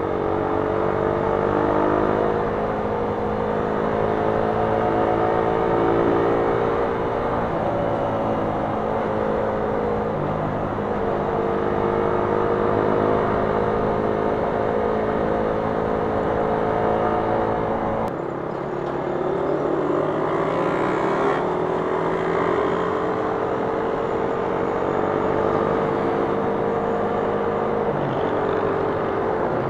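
Suzuki Raider 150 motorcycle's single-cylinder four-stroke engine running at cruising speed while riding, heard from the rider's seat. Its pitch rises and falls gently with the throttle, with a short dip and climb about two-thirds of the way through.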